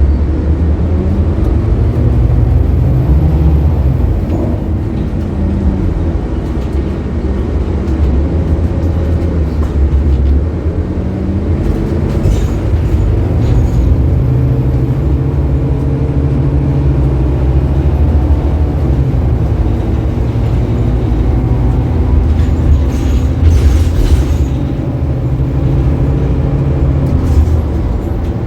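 A 2015 Scania K280UB bus's five-cylinder diesel engine running while the bus drives, its pitch rising as it pulls away and falling as it eases off, several times over. A few brief rattles or clicks come through about twelve seconds in and again near the end.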